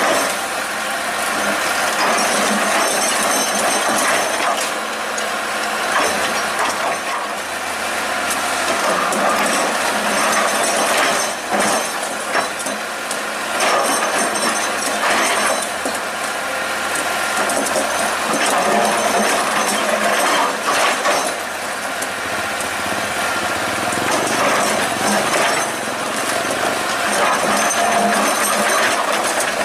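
Excavator working: its engine and hydraulics run steadily under a constant metallic clatter and rattle, with several sharper knocks along the way.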